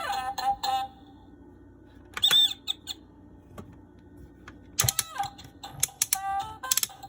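Fisher-Price Little People elephant and hippo toy playing short electronic sound clips with gliding tones, between clicks and knocks of the plastic toy being handled.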